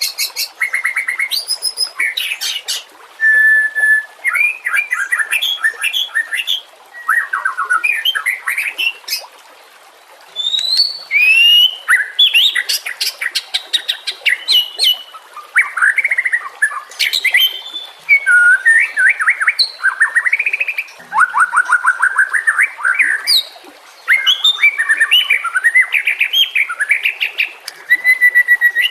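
White-rumped shama (murai batu) singing: a varied run of loud whistles, rising and falling glides and rapid trills, phrase after phrase with only brief pauses.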